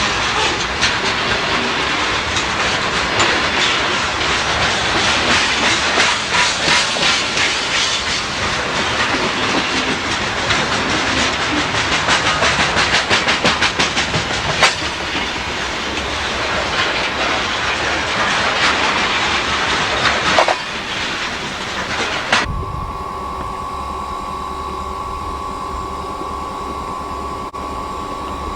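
Freight train rolling past, its wheels clacking rhythmically over rail joints, with one sharp bang about halfway through. About three-quarters of the way in, the sound cuts off abruptly to a steady hum with a faint high whine.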